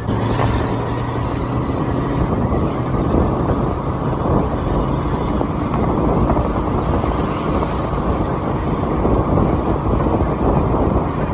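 Steady rush of wind and road noise from a motorcycle riding at highway speed. The noise is loud and unbroken, heavy in the low range, with no distinct events.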